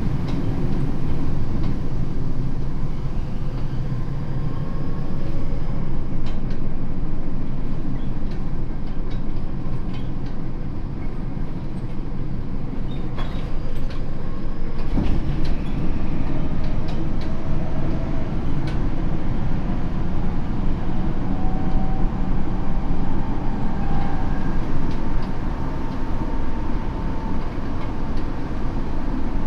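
Tokyo Metro 7000 series electric train (Hitachi IGBT inverter, 160 kW motors) running between stations, heard from inside the car: a steady rumble of wheels on rails with a few brief clicks. Faint motor tones sound in the second half.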